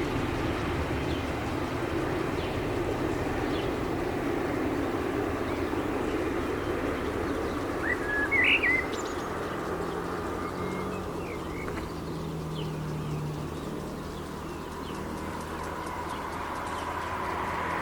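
Diesel engine of an ÖBB Class 5047 railcar running at a distance, its sound weakening through the middle and growing again near the end, with birds chirping. A short bird call about halfway through is the loudest sound.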